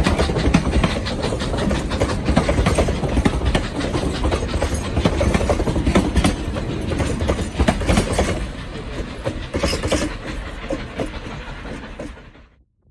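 Narrow-gauge passenger coaches rolling past close by, steel wheels rumbling and clicking over the rails. The sound eases after about eight seconds and fades out near the end.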